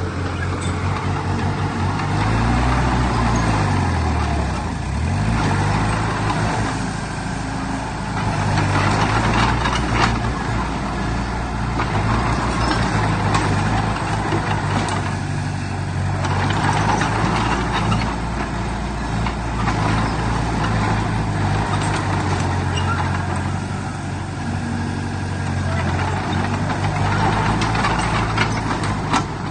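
Heavy diesel engine of earthmoving machinery running under load, its pitch dipping and rising about two to five seconds in, with scattered metallic clanks.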